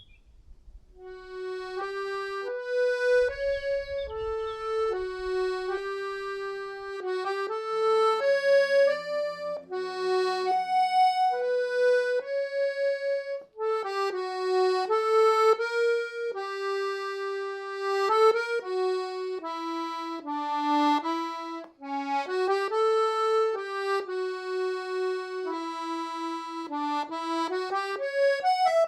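Slow solo instrumental melody on a reedy, accordion-like instrument, one held note after another, with a few lower notes sustained underneath about a third of the way in.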